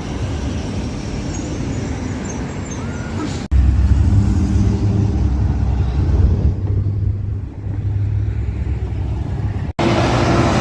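Cars driving past on a street with steady road noise, then, after an abrupt cut, a much louder deep engine rumble from a car going by, easing briefly before picking up again.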